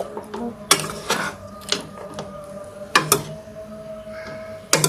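Cooking pot and utensils knocking and clinking: a handful of sharp knocks, two close together about three seconds in and two more near the end.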